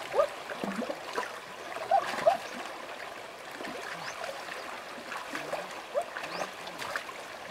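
River water running and trickling steadily, with a few light splashes and some faint, short pitched calls scattered through it.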